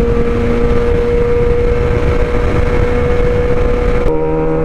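2024 Suzuki GSX-R750 inline-four running at a steady speed through aftermarket headers, midpipe and M4 slip-on exhaust, with wind rushing past the helmet-mounted mic. Near the end the rushing cuts off sharply and the engine note changes to a lower, steadier set of tones.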